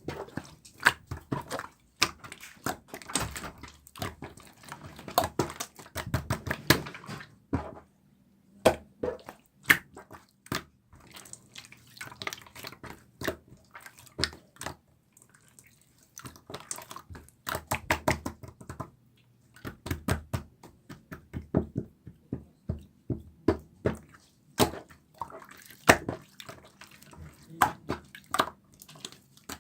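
Slime being squeezed and stretched by hand: a dense, irregular run of wet, sticky clicks and pops, with a couple of short lulls.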